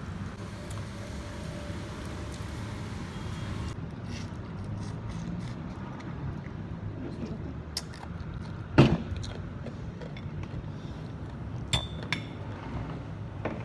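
A steady low background hum with scattered light clicks and clinks, and one sharp, loud knock about nine seconds in, followed by a few smaller knocks.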